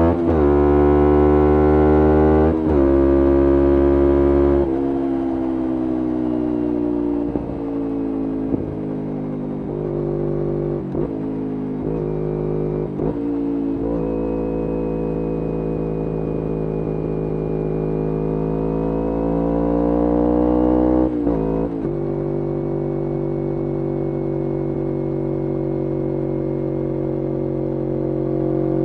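2011 Kawasaki Ninja 250R's parallel-twin engine running through a full Graves racing exhaust while the bike is ridden. It shifts up twice in the first few seconds, with a drop in pitch each time. The note then sinks and climbs slowly, broken by a few brief throttle cuts, and holds steady near the end.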